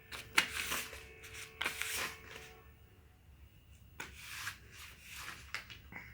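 Four short bursts of rustling, like paper or cloth being handled, with brief pauses between them.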